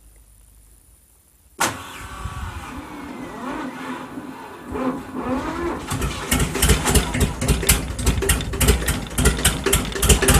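Old tractor engine cold-starting. About a second and a half in, cranking begins suddenly with a rising whine. Around six seconds in the engine catches and runs with an even rapid beat of firing strokes, several a second.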